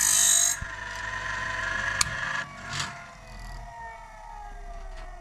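Sawmill band-blade sharpener running on battery power, grinding and indexing the blade with a sharp click about two seconds in. Its motor then winds down with a slowly falling whine as the stop switches cut it off.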